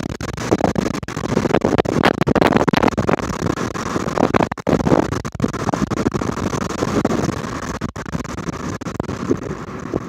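Wind buffeting the microphone in irregular gusts over a steady low rumble from a moving vehicle.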